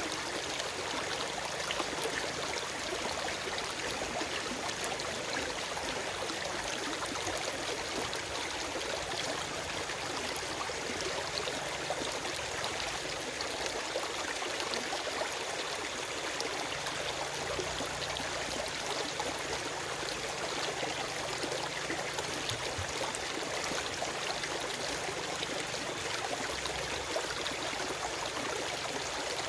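Forest stream flowing steadily over rocks, a continuous rush of water with fine splashing and trickling, without birdsong.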